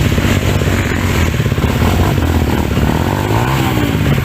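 Off-road trail motorcycle engine running and being revved, its pitch swinging up and down about three and a half seconds in.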